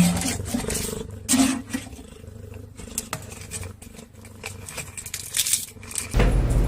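A cat growling, with irregular scuffling knocks and clicks; a sharp knock at the very start is the loudest sound. Near the end the sound changes abruptly to a steady low hum.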